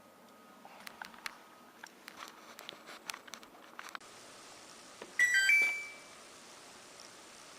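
Light clicks and handling sounds, then about five seconds in a tumble dryer's control panel gives a short electronic beep of two or three quick notes.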